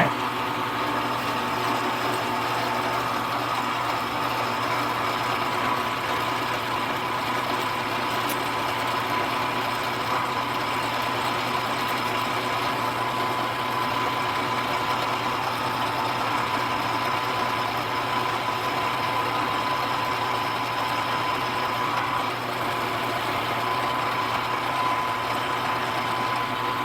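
Milling machine running steadily, its spindle turning an end mill, with a steady high whine over a lower hum.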